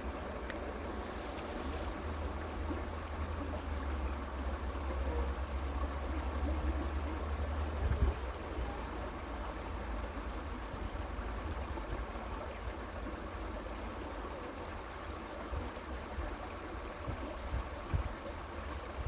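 Creek water flowing steadily, with a low rumble underneath that eases about eight seconds in, where there is a brief bump.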